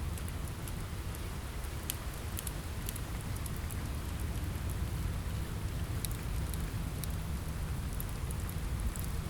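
Steady rain with a low rumble, mixed with a wood fire crackling in short, sharp, irregular pops.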